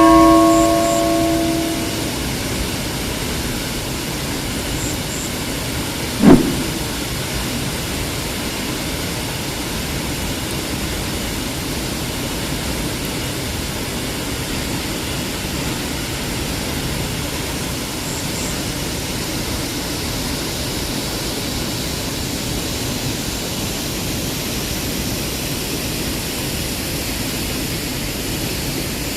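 Waterfall water rushing steadily. A bell-like chime fades out over the first two seconds, and a single sharp knock comes about six seconds in.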